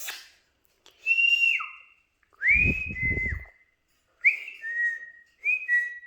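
Four short, clear whistled phrases, each note sliding up and then held steady or dropping away, with a gap of about a second between them. A low breathy rumble sounds under the second phrase.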